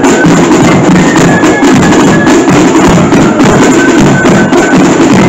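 Marching flute band playing a tune: high flute notes over snare drums and a bass drum.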